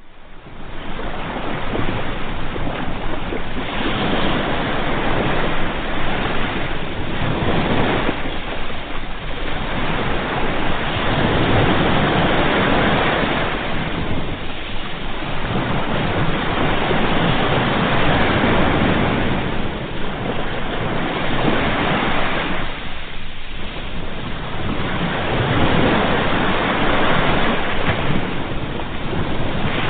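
Ocean surf: waves breaking and washing in as a continuous rush that swells and eases every few seconds. It fades in from silence at the start.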